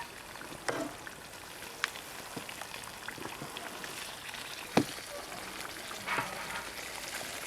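Masala gravy sizzling in a pan as a whole chicken cooks in it, with a few sharp pops along the way.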